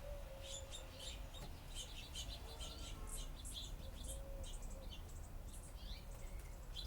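Small birds chirping, many short high chirps overlapping throughout, with a few short lower held notes in between.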